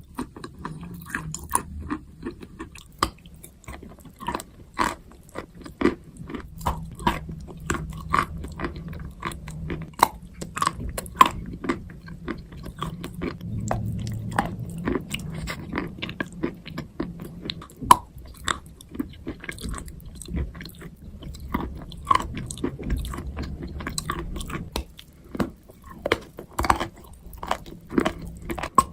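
Close-up crunching of chalk and dry clay being bitten and chewed: many sharp, irregular crunches, several a second, over soft chewing.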